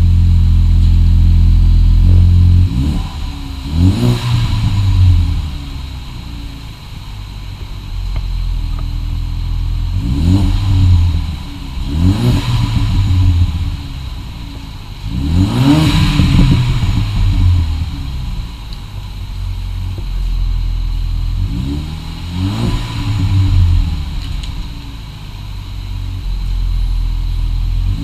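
2015 Ford Mustang EcoBoost's turbocharged 2.3-litre four-cylinder running through a newly built Magnaflow cat-back exhaust. It runs steadily for about two seconds, then idles and is revved repeatedly, each rev climbing and dropping back.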